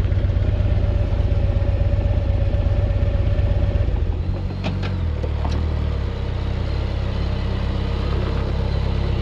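Motorcycle engine idling steadily, its note changing about four seconds in.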